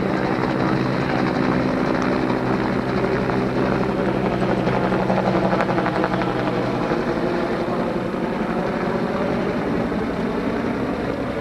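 Helicopter flying low, its rotor beating steadily while its engine tones fade about seven seconds in.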